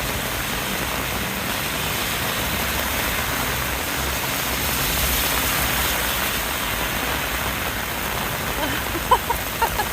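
Heavy rain falling on an umbrella held overhead, a steady hiss with a few short sharp blips near the end.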